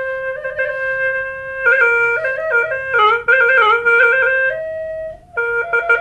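Background music: a solo woodwind plays a melody, holding a long note, then a run of quick ornamented notes, then a higher held note, with a brief break near the end.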